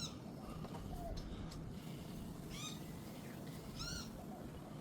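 Birds calling: three short cries, each rising and falling in pitch, one at the start and two more a little past halfway, over a low background rumble.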